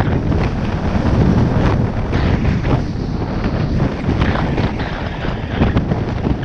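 Loud wind buffeting the microphone, a steady low rumble with short irregular hissing scrapes over it.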